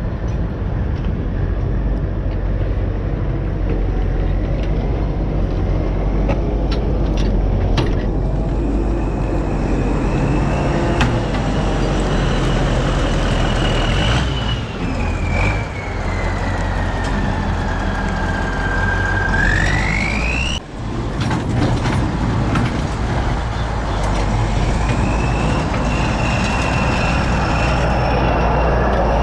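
Kirovets K-700A tractor's diesel engine running under a break-in after a rebuild, with a steady low drone and a whine that holds, sinks slowly and then rises sharply as the revs change, rising again near the end. A few clicks come about a third of the way in.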